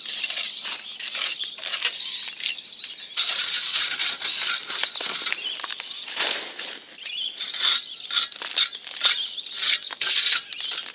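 A tool scraping and rubbing along the edges of freshly laid, still-soft ferro cement, a busy scratchy sound that goes on with short pauses.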